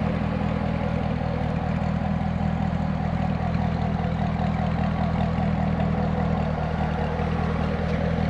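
Chevrolet Corvette C6's V8 engine running at a steady cruise with road noise, its pitch holding constant.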